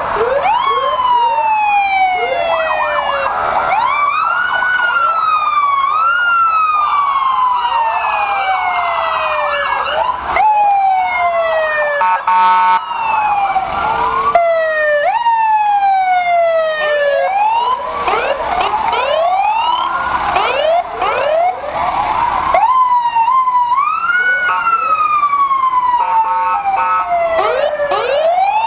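Several emergency-vehicle sirens from fire trucks and other responders sounding at once and overlapping. Each wails with a quick rise and a slower fall every two to three seconds, and faster rising sweeps crowd in during the second half.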